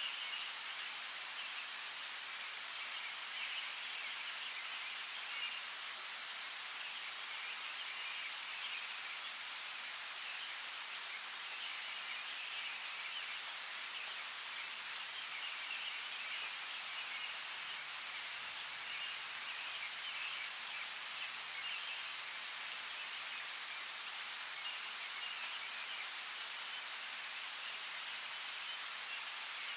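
Steady rain falling, with a few louder single drops ticking, and faint high chirping calls coming and going in the background.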